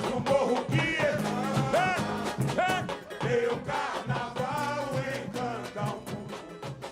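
A samba-enredo performed live: a voice singing the parade song over the steady drumming of a samba school's percussion section, getting somewhat quieter in the second half.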